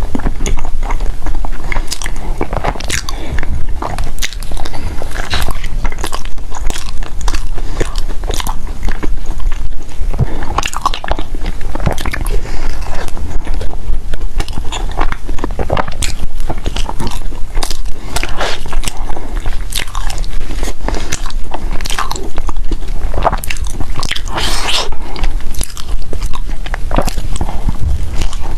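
Close-miked biting and chewing of food: a dense, irregular run of sharp crunchy mouth clicks and smacks.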